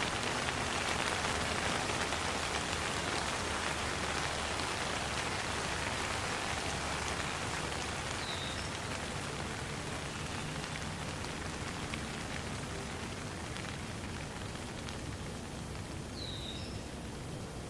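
Steady rain falling, an even hiss of drops that slowly grows softer. Two brief high chirps cut through it, one about halfway and one near the end.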